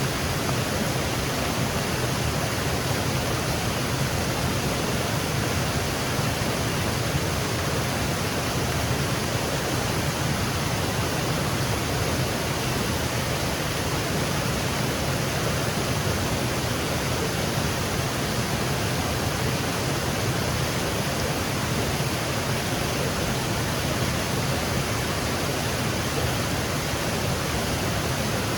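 Small woodland waterfall cascading over rocks: a steady, even rush of falling water.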